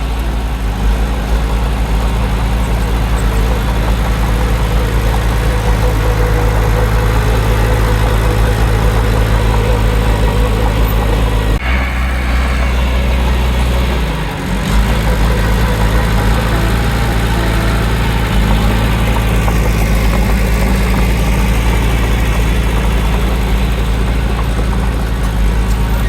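Heavy earthmoving machine's diesel engine running steadily. About halfway through, the engine note shifts abruptly and briefly dips before settling back to the same steady running.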